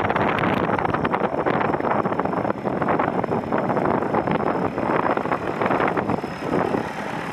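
Wind buffeting the microphone over the steady rumble of a running tractor: a loud, rough, unbroken noise.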